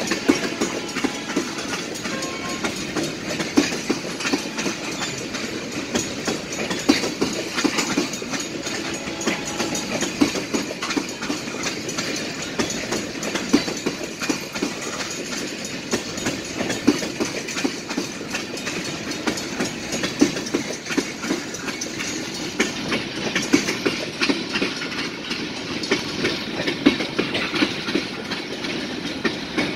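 A freight train of tank cars rolling steadily past, the steel wheels clicking and clacking over the rail joints.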